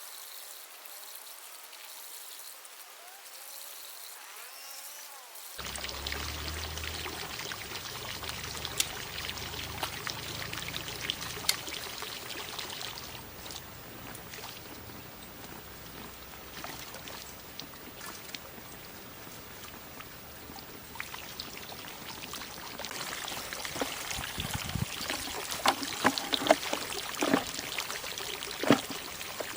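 Water pouring and trickling. There are scattered sharp knocks and clicks, more frequent near the end.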